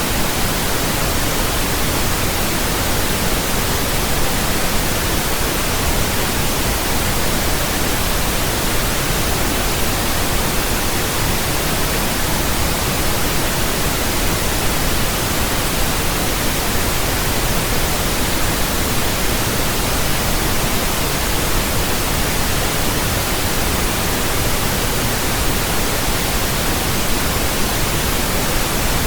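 Steady pink noise: a flat, even hiss with a deeper rumble than white noise, unchanging throughout.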